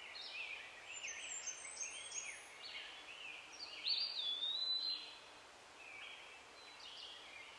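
Several birds chirping and singing, faint, over a low hiss, with a clearer whistled note held for about a second roughly four seconds in.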